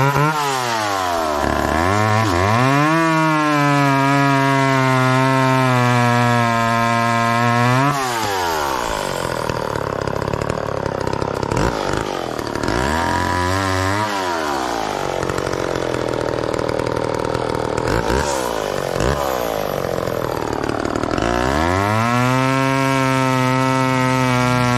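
Two-stroke chainsaw revving up and held at full throttle. About eight seconds in it bogs down into a lower, wavering pitch as it cuts into wood, with a few blips of the throttle. Near the end it rises again to a steady high rev.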